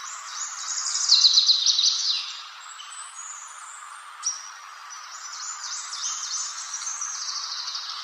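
Songbird singing: fast runs of high chirped notes, loudest about a second in, with another long run of song starting near the middle. A steady background hiss runs beneath.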